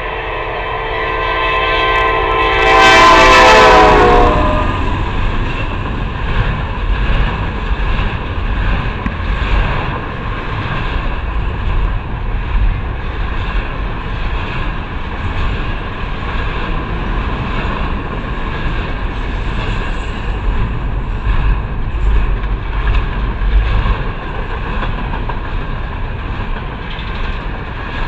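Freight locomotive's air horn sounding a chord of several notes that drops in pitch as the lead locomotive passes about three seconds in. Then the steady rumble and rhythmic clickety-clack of a long double-stack intermodal train's wheels rolling by on the rails.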